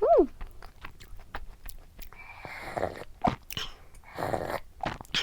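Close-up chewing of a soft, chewy dacquoise-style cookie, with small wet mouth clicks. A short hummed 'mm' comes at the start, and two breathy exhales through the nose come later.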